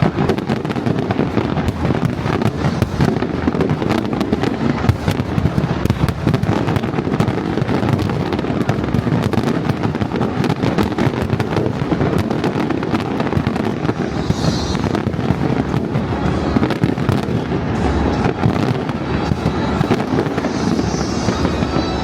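Fireworks display in full barrage: a dense, unbroken run of bangs and crackles, with a few brief high whistles mixed in.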